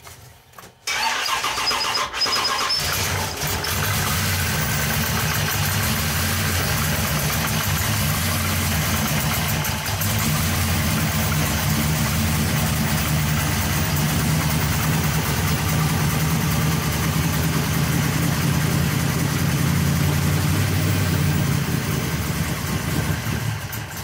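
Carbureted V8 engine with a four-barrel carburetor starting: it catches about a second in and settles into a steady idle.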